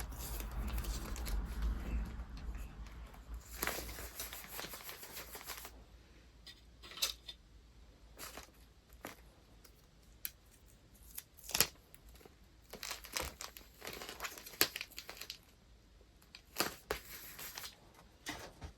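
Paper wrapping being handled by hand: rustling, crinkling and tearing. A steady rustle over the first few seconds gives way to scattered sharp crackles and short bursts of crinkling.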